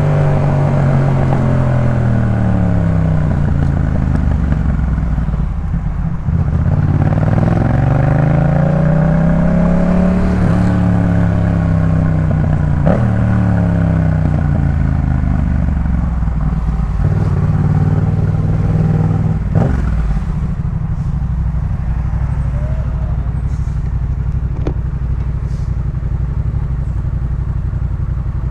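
2018 Yamaha MT-07's parallel-twin engine running through a Jeskap K4 full exhaust while riding. It slows, pulls up in pitch again, eases off, and then settles to a low, steady note about two-thirds of the way through.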